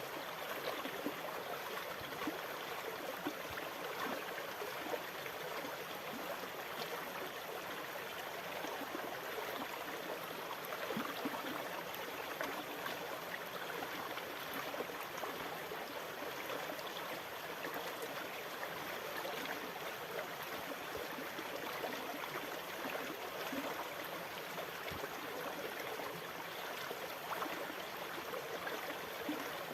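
Sea water lapping and trickling: a steady wash full of small splashes and gurgles, holding an even level without swells.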